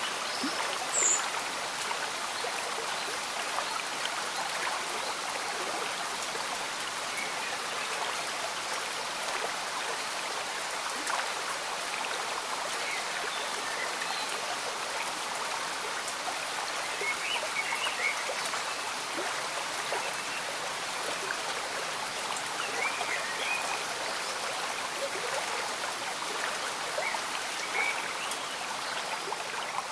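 Shallow stream bubbling and trickling steadily, with light rain falling, and a few faint short chirps over the water.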